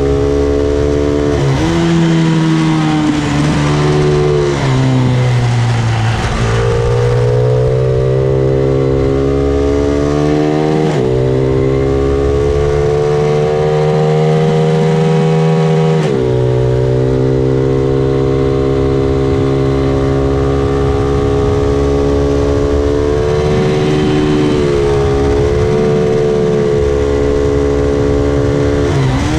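Honda NSF100 mini racing motorcycle's small single-cylinder four-stroke engine running hard, its pitch climbing steadily and then dropping sharply several times, with a steadier stretch in the middle.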